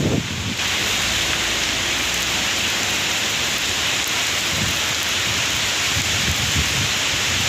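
Heavy rain pouring down steadily, a dense, even hiss that sets in sharply about half a second in.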